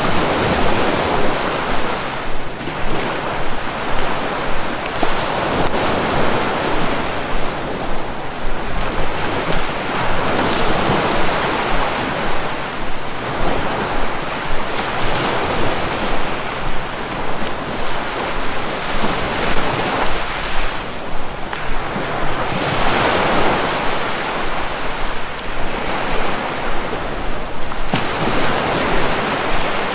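Sea waves breaking and washing on a shore, a steady rush that swells and eases every few seconds.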